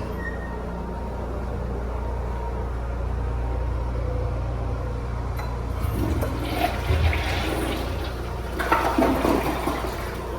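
Toilet flushing: a rush of water starting about six seconds in, loudest near the end and then dying away, over a steady low hum.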